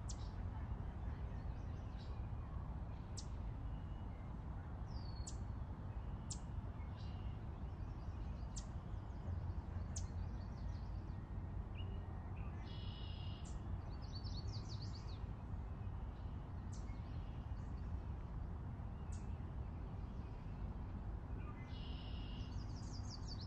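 Wild birds calling: scattered short, sharp high chirps, and twice a buzzy note running into a quick trill, about halfway through and again near the end, over a steady low background rumble.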